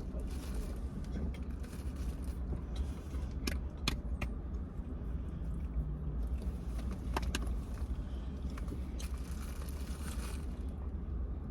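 Steady low rumble of a car cabin with the engine running, with a few sharp light clicks and taps scattered through it.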